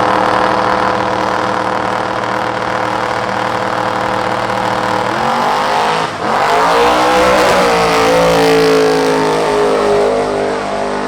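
Drag race cars' engines running steadily at the line, then launching about six seconds in and accelerating hard away down the strip, engine pitch rising and swaying through the pull.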